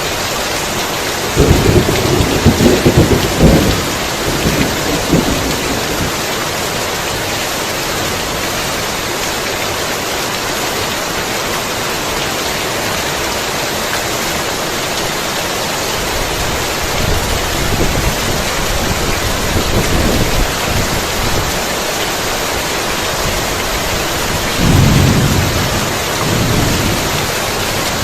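Heavy rain falling steadily, with rolls of thunder: a loud rumble about a second and a half in lasting a couple of seconds, weaker rumbles in the middle, and another loud roll near the end.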